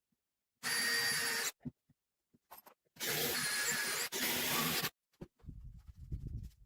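Power drill running in two bursts, a short one of about a second and then a longer one of about two seconds that dips briefly midway, with a steady motor whine.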